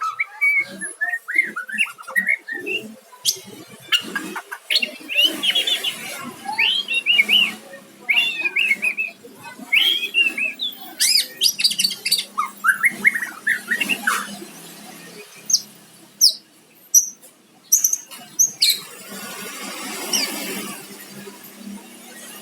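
White-rumped shama (murai batu) singing: a rapid run of varied whistled and chirped phrases for about fourteen seconds, then a few single sharp notes, with a short stretch of hiss near the end.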